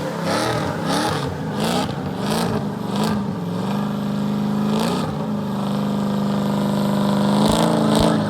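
LS1 5.7-litre V8 in a Nissan 240SX S13 revving hard, climbing and dropping in pitch for a few seconds, then held steady for about three seconds near its 3,000 rpm break-in limit during a burnout.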